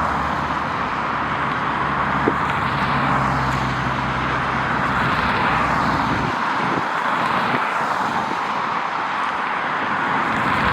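Steady rushing vehicle noise that swells and eases slowly, with a low hum underneath that drops away about six seconds in.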